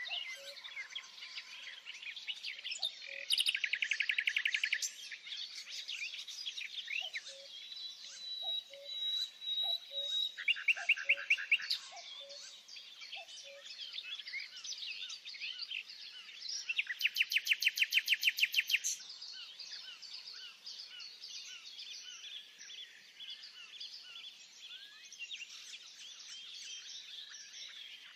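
Several birds singing in a dense chorus of chirps. Three loud, very fast trills of about a second and a half each stand out, a few seconds in, at about eleven seconds and at about eighteen seconds.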